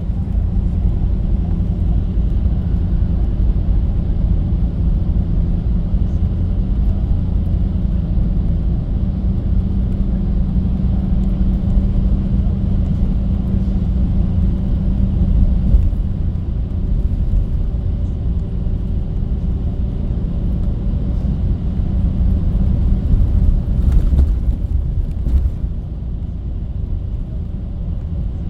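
Steady low rumble of a moving bus heard from inside the cabin: engine and road noise, with a few brief rattles near the end.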